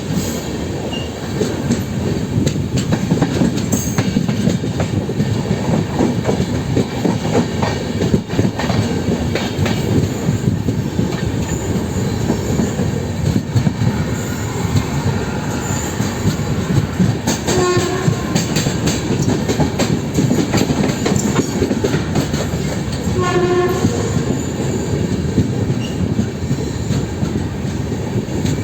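LHB coaches running at speed with a steady rumble and clatter of wheels over the track. The WAP7 electric locomotive's horn sounds twice in short blasts, once a little past halfway and again about six seconds later.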